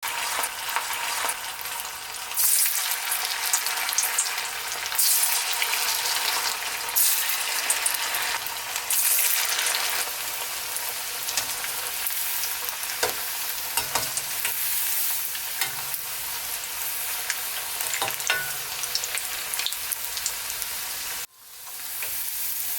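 Chicken pakoras deep-frying in hot oil: a steady sizzle with crackling spatter, swelling louder several times in the first ten seconds. It cuts out for a moment near the end, then comes back.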